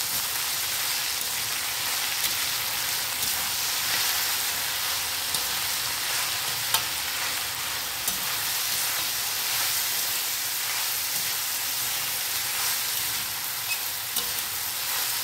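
Diced vegetables (potato, carrot, green beans, onion) sizzling in oil in a metal kadai while a spatula stirs them. The steady frying hiss is broken now and then by a click of the spatula against the pan.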